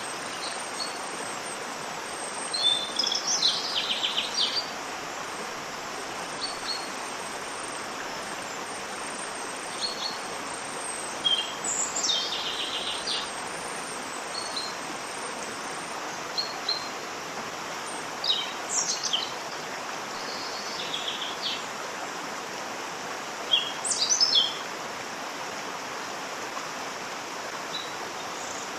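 Steady rushing of a waterfall, with small birds chirping and trilling over it in short, scattered phrases, the loudest a few seconds in, near the middle and about three-quarters of the way through.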